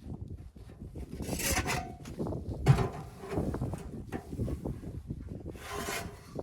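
Irregular rubbing and scraping sounds, with a sharp knock about three seconds in.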